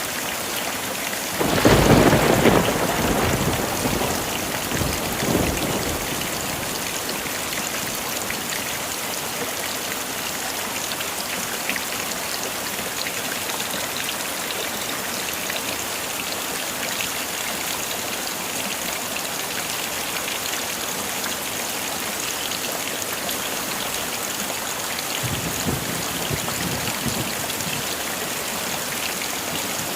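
Heavy rain falling steadily, with a loud roll of thunder about a second and a half in that fades over the next few seconds. A fainter rumble of thunder comes near the end.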